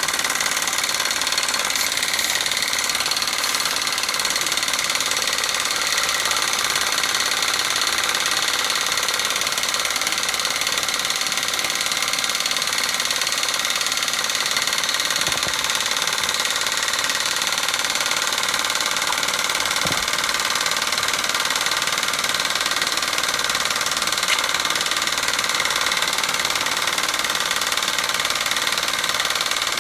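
Homemade steam engine and antique Robert Fulton engine running together at a steady pace, a continuous mechanical running sound with a strong hiss that does not change.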